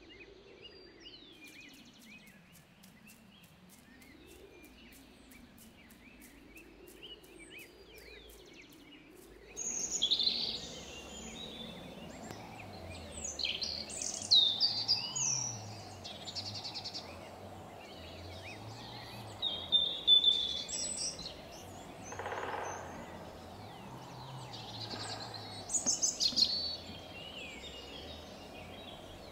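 Birds chirping and twittering, faint at first and much louder from about ten seconds in, over a slow rising-and-falling tone.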